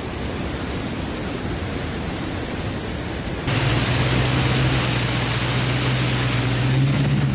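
Heavy rain, a steady hiss; about three and a half seconds in it cuts abruptly to louder rain over a car engine running as a steady low hum.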